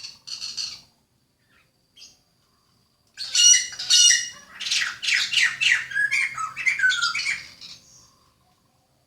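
A songbird calling: a short, harsh call near the start, then from about three seconds in a loud, rapid run of varied song with quick falling notes, lasting about five seconds before it stops.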